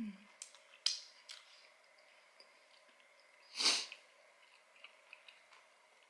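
Close mouth sounds of a person chewing a bite of chicken sandwich: faint wet clicks and smacks, a sharper one about a second in. A short breath through the nose a little past halfway.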